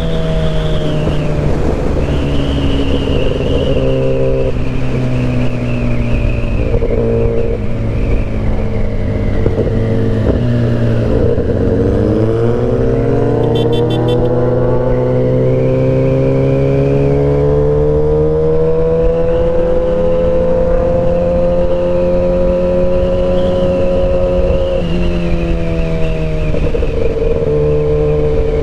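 Motorcycle engine running under way. Its pitch drops about ten to twelve seconds in, then climbs slowly and evenly, with another change in pitch near the end.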